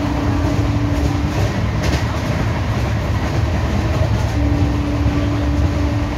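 LHB passenger coaches running at speed, a steady rolling rumble of wheels on rail with one sharp clank about two seconds in. The electric locomotive's horn sounds twice as a single steady tone, once at the start and again from past the middle.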